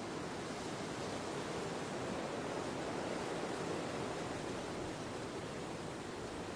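Steady wind ambience: an even rushing noise with no separate gusts, swelling a little in the middle and easing toward the end.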